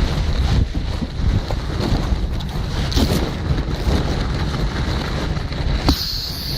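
Strong gusty wind buffeting the microphone, a constant low rumble, with a brief higher hiss near the end.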